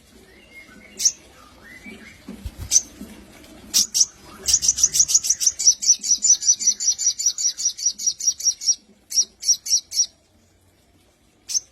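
A sogon (crimson sunbird) singing: a few sharp, high single chirps, then a fast trill of about eight chirps a second lasting some four seconds, followed by a handful of separate chirps.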